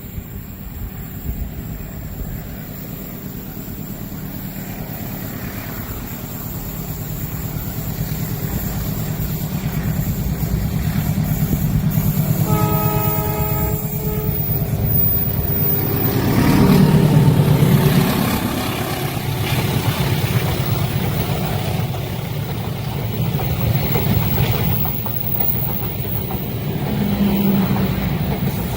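A train approaching and passing: a rumble that grows louder, one horn blast lasting about a second and a half, then the locomotive going by with a falling pitch, followed by the steady rumble of the wagons rolling past.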